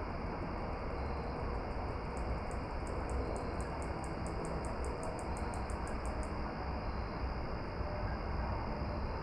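An insect chirping in a fast, even series of high ticks, about four or five a second. It starts faint about a second in, grows clearer about two seconds in and stops about six seconds in. Under it is a steady rushing noise with a low rumble.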